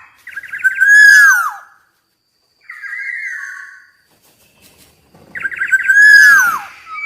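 Black-naped oriole singing: two loud phrases, each a quick stutter of short notes followed by clear whistled notes sliding downward, with a quieter, shorter phrase between them.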